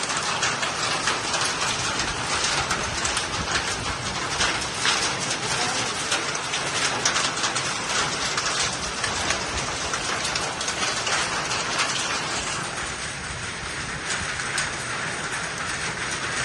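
Heavy downpour beating on hard surfaces, a dense patter of many small impacts, easing a little about three-quarters of the way through.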